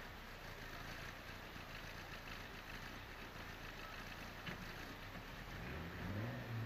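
Turbocharged four-cylinder engine of a 1992 Eagle Talon idling, heard from inside the cabin as a low steady hum. Near the end the engine note rises and wavers.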